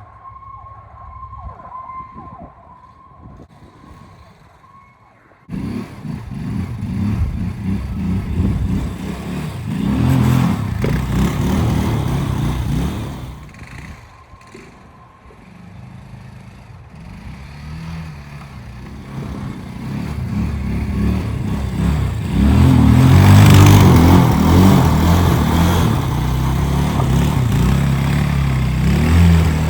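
A four-wheeler's engine comes in suddenly about five seconds in, then runs and revs up and down as it rides through snow, loudest near the end.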